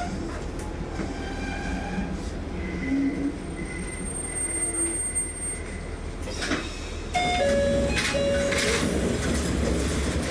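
Diesel railcar heard from the cab as it draws to a stop at a platform: low running rumble with brief high squeals from the brakes and wheels. About seven seconds in, after it has stopped, there are short hisses and a few short steady tones.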